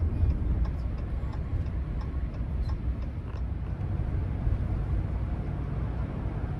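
Steady low rumble of a 2024 Ram 1500 Laramie driving, heard from inside the cab: engine and road noise, with a few faint light ticks.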